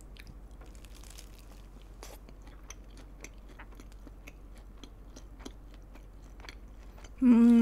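Close-miked chewing of moist, sauce-glazed fried chicken: soft, wet mouth sounds with many small clicks, not crunching. Near the end there is a short, louder vocal sound.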